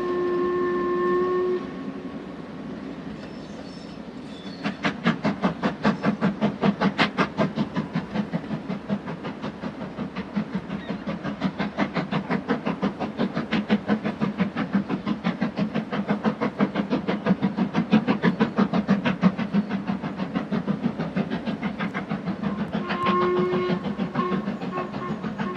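Steam locomotive whistle sounding a steady chord-like blast that stops a second or two in. Then the engine works past with fast, regular exhaust beats and rail clatter, and gives a second, shorter whistle in broken toots near the end.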